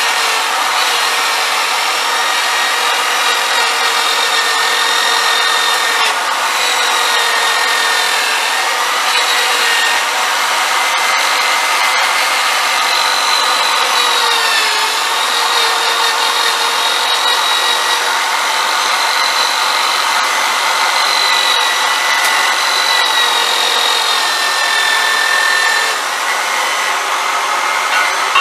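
Electric drill running continuously at speed on an old Victorian wheel to clean it. Its steady whine dips briefly in pitch now and then as it bears on the work.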